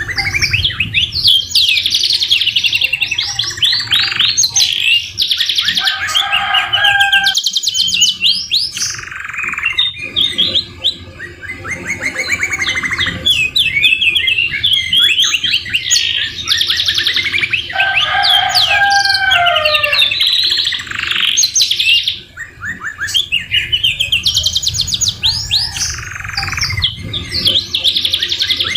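Domestic canary singing almost without a break, in fast high trills and rolls. About six seconds in, and again around eighteen seconds, it drops into slower, lower whistled phrases, white-rumped shama (murai batu) phrases worked into its song.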